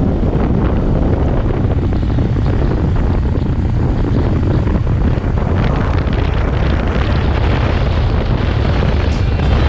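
Wind buffeting the camera microphone on a moving motorbike, a loud steady low rumble over the bike's running noise. Music comes in near the end.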